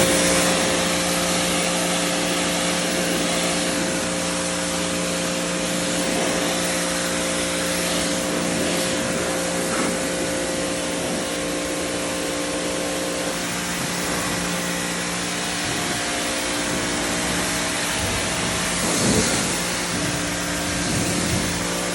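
Pressure washer running steadily: a motor-and-pump hum under the hiss of the spray, with a brief louder swell of spray near the end.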